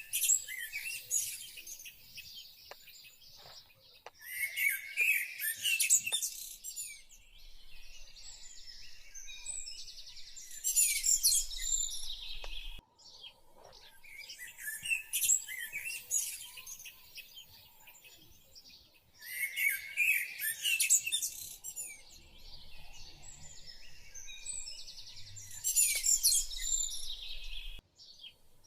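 Small birds chirping and twittering, in louder bursts a few seconds long with quieter chirping between.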